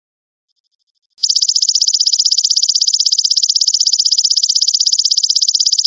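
Belalang emas (golden grasshopper) insect calling: a loud, high-pitched, rapidly pulsed trill of even strokes. It swells in from a faint softer trill about a second in and then holds steady.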